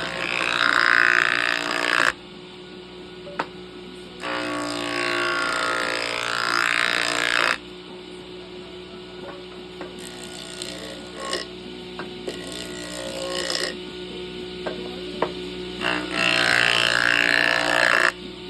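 A power tool running in three loud bursts of a few seconds each, about two seconds, three and a half seconds and two seconds long, with small sharp knocks and clicks in the quieter gaps between.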